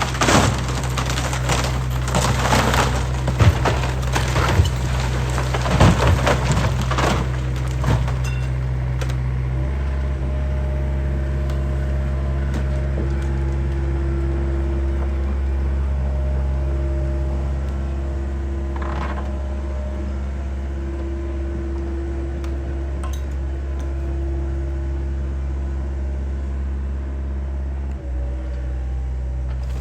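A diesel excavator runs steadily while its bucket tears into a wooden house, with wood cracking and splintering and debris crashing for the first eight seconds or so. After that only the engine runs on, with an on-and-off hydraulic whine.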